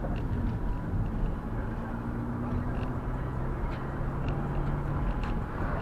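A vehicle on the move: a steady low rumble of engine and road noise with an even hum, and a few faint light ticks or rattles.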